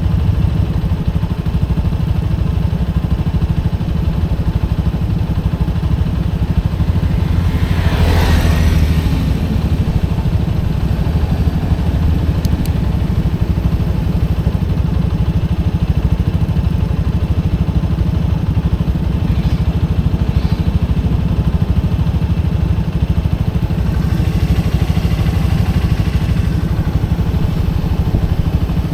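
Motorcycle engine running steadily with a loud, low rumble while riding. A louder rush swells up and fades about eight seconds in, and another weaker one comes near the end.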